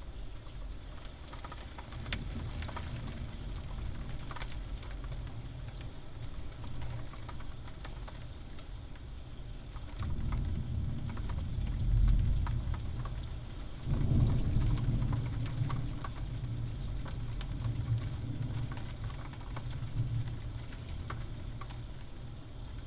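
Thunderstorm rain falling steadily, with a dense patter of drops. A deep rumble of thunder swells up about ten seconds in and again a few seconds later.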